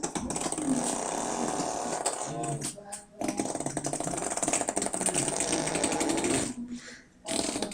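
A young child blowing with her mouth pressed against a tabletop, making a long, rapid, fart-like buzz. Two long blows with a short break about three seconds in, and a third starting near the end.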